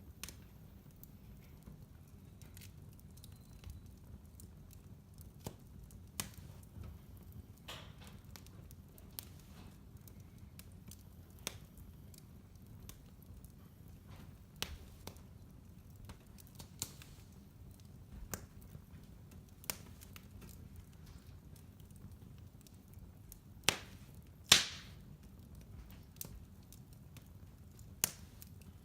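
Fire in a fireplace burning with a low steady rumble and scattered sharp crackles and pops at irregular intervals. The loudest two pops come close together near the end.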